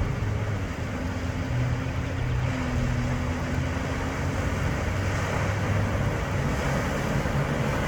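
A GMC vehicle driving slowly through deep floodwater: its engine running steadily under a continuous wash of water noise.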